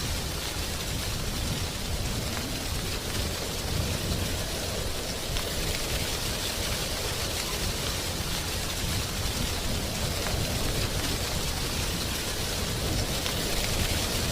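Wind blowing through tree leaves: a steady rustling hiss over a low rumble, without a break.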